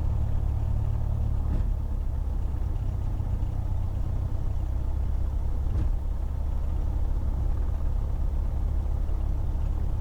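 Cessna 172's engine and propeller running steadily at reduced taxi RPM, a low, even drone. Two faint clicks about a second and a half and six seconds in.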